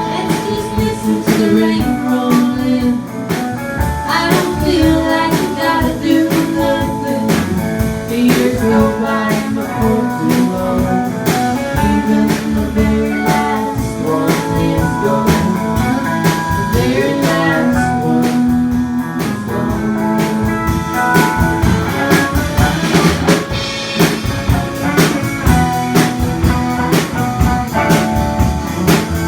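Live band playing a blues-tinged song: guitar and a drum kit keeping a steady beat, with a voice singing over it at times.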